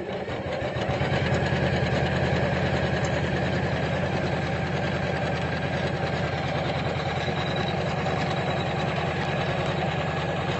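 Computerized embroidery machine stitching at speed: a steady, fast, even needle rhythm that builds up over about the first second and then holds steady.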